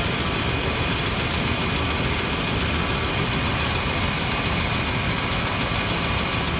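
1996 GMC 1500 pickup's engine running steadily at idle after a long sit, with no oil pressure showing. Moments earlier the owner said that something just blew up.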